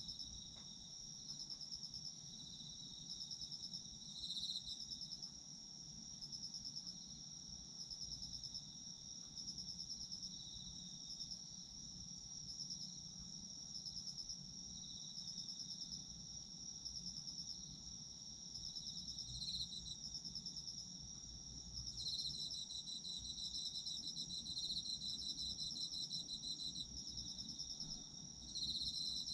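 Several autumn crickets calling together: a steady high pulsing trill with a second, slightly lower chirping call over it, which grows louder about two-thirds of the way through.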